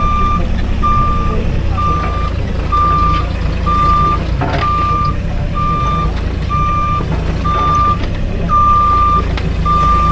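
Vehicle backup alarm beeping steadily about once a second, a single high tone, over the low steady running of the machine's engine: the machine is reversing. There is a brief knock about four seconds in.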